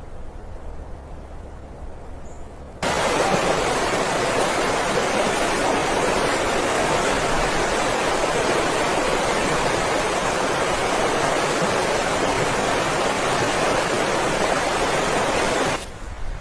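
Steady, loud rushing noise of blizzard wind, starting abruptly about three seconds in and cutting off just before the end, with a low rumble before and after.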